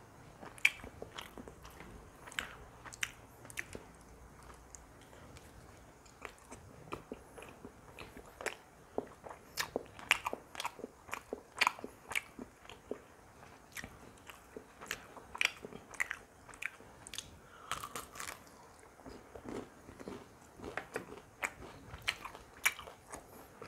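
A person chewing and biting food close to the microphone, with irregular wet mouth clicks and smacks that come thickest around the middle.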